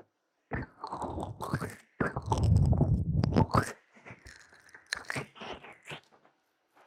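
Ear-massage ASMR on a binaural microphone: fingers rubbing and scratching the microphone's ears, making close crunchy crackling, with the loudest, low rubbing from about two to almost four seconds in and lighter scratches after. The sound stops briefly twice where one clip is cut to the next.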